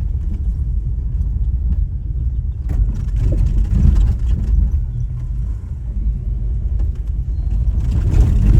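Vehicle driving along a road: a steady low rumble of engine and road noise.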